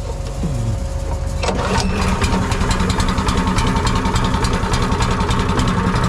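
Farm tractor engine running with a steady, even firing beat; about a second and a half in it speeds up and gets louder.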